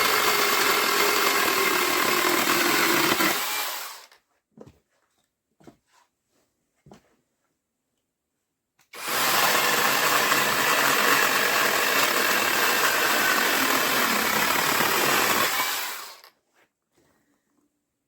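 Brushless cordless mini chainsaw cutting hardwood in two runs, the first dying away about 4 s in and the second running from about 9 s to 16 s, with a few small clicks in the pause between them.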